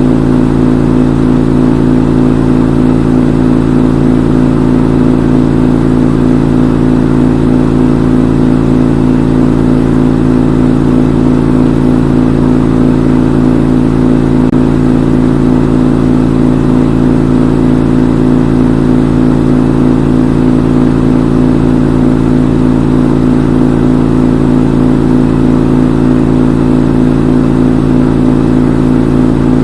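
Front-loading washing machine in its spin cycle, the drum spinning at a steady high speed with a loud, even hum.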